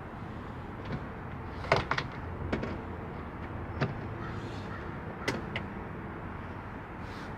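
A handful of sharp clicks and knocks at irregular intervals, the loudest just before two seconds in, from hand work on a car's side skirt trim and its bolts, over a steady background hiss.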